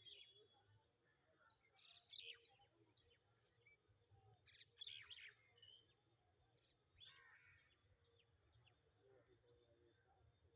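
Faint bird calls: scattered short high chirps, with a few louder rapid trilled calls about two, five and seven seconds in.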